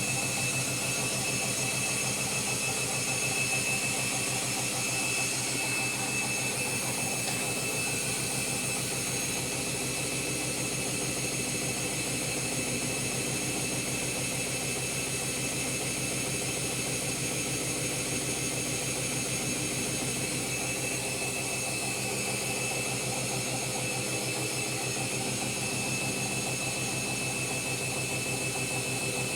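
Candy Grand'O Vita 7 kg washing machine spinning at speed during its pre-wash: a steady motor whine over the whir of the spinning drum.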